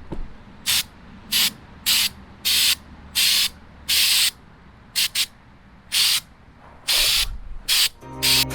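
Aerosol spray can being sprayed in about a dozen short hissing bursts, one every half second to a second.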